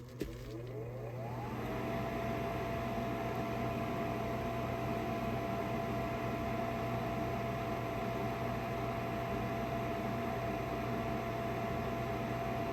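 Trane gas furnace's draft inducer motor starting up: its whine rises over about a second and a half, then it runs steadily with a hum as the furnace begins its call for heat.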